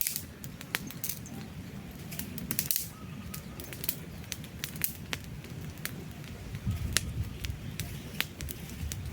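Wood campfire crackling: irregular sharp pops and snaps of burning logs over the low, steady rush of the flames.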